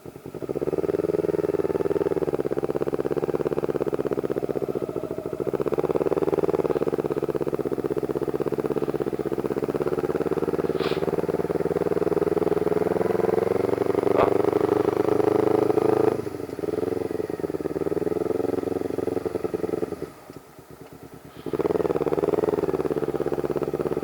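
Motorcycle engine under way, its revs rising and falling through gear changes, with the throttle briefly closed about twenty seconds in before it pulls again.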